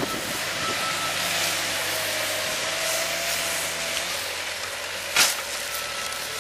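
Heavy log-handling machine running steadily with a broad hissing noise, and one sharp knock about five seconds in.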